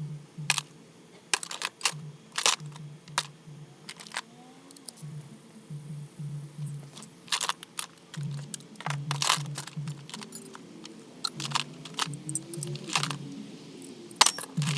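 Hand tools and metal engine parts clinking and tapping in irregular short clicks, as parts are taken off the engine, over background music with a pulsing beat.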